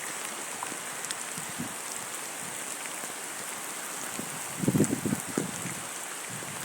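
Heavy rain falling in a steady hiss with scattered drop ticks, and a few louder low thumps about two-thirds of the way through.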